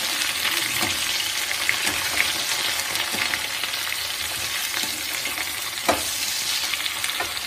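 Turnip pieces with jaggery and spices sizzling in hot oil while a metal spoon stirs them, scraping and clinking against the steel pan, with a sharper clink about six seconds in.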